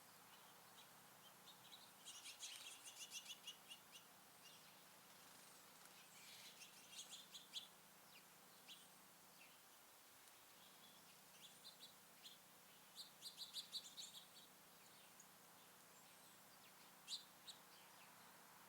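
Faint chirping of small songbirds. Bursts of quick, high, rapidly repeated notes come about two, six and thirteen seconds in, and a single sharp chirp near the end.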